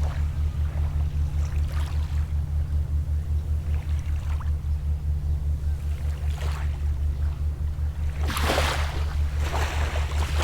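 A boat engine running steadily with a low, even throb, while small waves wash onto the shore several times, the strongest about eight seconds in.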